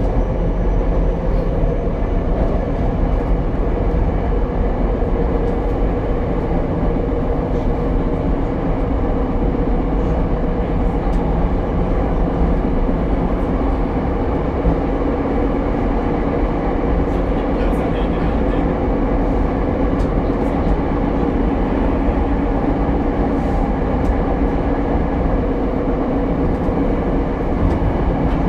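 Ichibata Electric Railway 7000-series single railcar running, heard from inside the car: a steady rumble of wheels on rail with an even motor hum.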